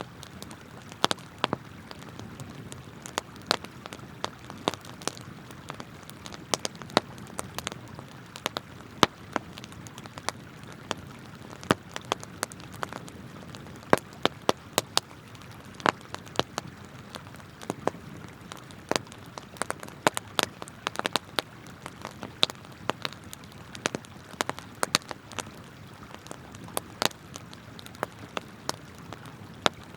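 Wood campfire crackling, with sharp irregular pops and snaps several times a second, over the steady rush of a flowing river.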